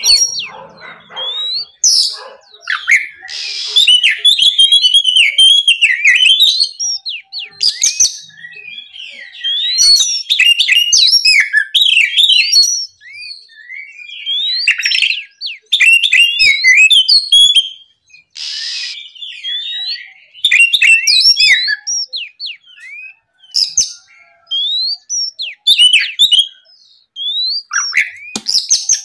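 Oriental magpie-robin (kacer) singing a loud, varied song of whistled phrases and chirps in bursts with short pauses between, with a few short harsh notes mixed in.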